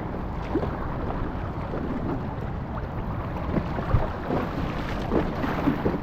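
Wind rumbling on the microphone over water sounds from an inflatable kayak being paddled on a river, with a few short splashes from the paddle.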